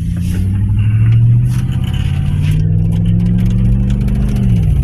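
Car engine and road noise heard from inside the cabin while driving: the engine drone climbs in pitch just after the start, holds steady, then drops away near the end.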